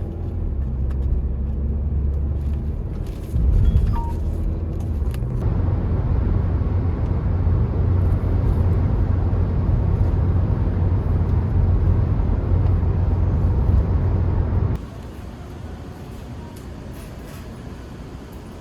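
Low, steady road and engine rumble of a car driving, heard from inside the cabin. It gets louder about three and a half seconds in and drops off sharply about fifteen seconds in.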